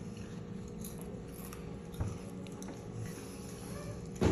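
A person chewing a bite of Korean corn dog, with a soft knock about two seconds in.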